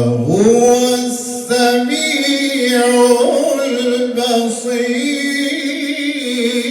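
Male Quran reciter chanting in a slow, melodic tajwid style, drawing each word out into long held notes. His voice rises in pitch just after the start, then holds and ornaments the note.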